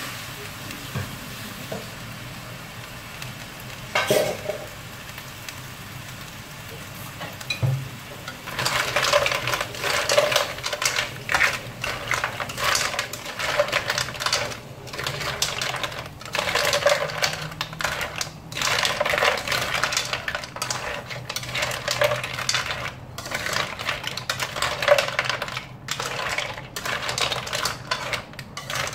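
Spatula stirring mussels in a nonstick wok, the shells clattering against each other and the pan in repeated bursts from about eight seconds in. There is a single knock about four seconds in.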